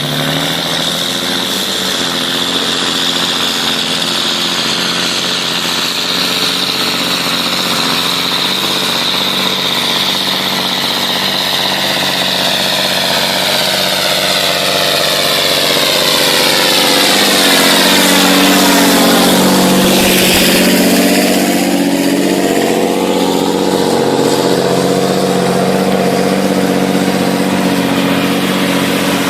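John Deere 2020 tractor engine running steadily. It grows louder to a peak about two-thirds of the way through, then eases off a little.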